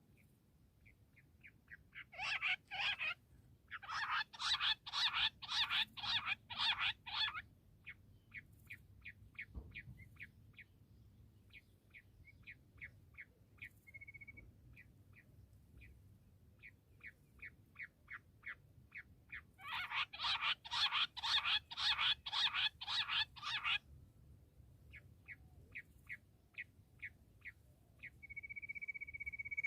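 Bush quail calling: long series of short, sharp repeated notes, breaking into loud bouts of rapid notes about two seconds in, again from about four to seven seconds, and around twenty seconds. Softer, spaced notes run between the bouts, and a steady high tone begins near the end.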